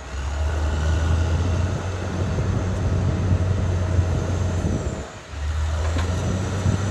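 Caterpillar D6R XL bulldozer's diesel engine running steadily under work, a deep drone. The drone drops away briefly about five seconds in and then returns.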